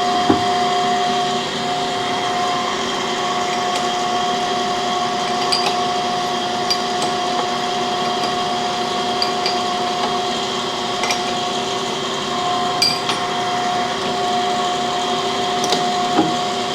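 Steady hum of a cam grinding machine running, with a few sharp metal clicks and knocks as a camshaft core is handled in the machine.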